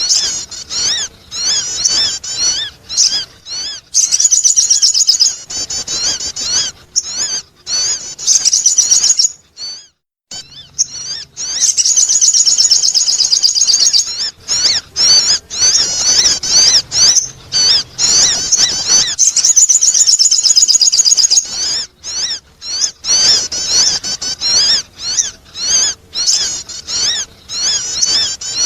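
Sogon bird song used as a lure call: rapid, high chirping notes in repeated phrases, running into dense trills a few times.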